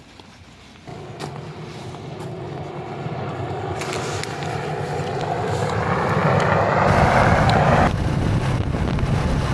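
A motor vehicle running and growing steadily louder for several seconds as its pitch creeps up. Near the end the higher part cuts off abruptly, leaving a lower steady rumble.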